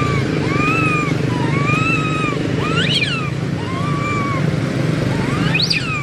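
Baby macaque crying in weaning distress: a steady run of short arched coos, about one every three-quarters of a second. Two shriller cries rise and fall about three seconds in and again near the end. A steady low engine-like rumble runs underneath.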